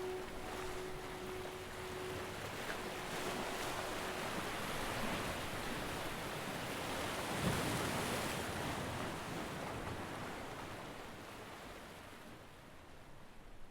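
A steady rushing noise like surf or wind, swelling about halfway through and fading out toward the end. A held tone dies away in the first few seconds.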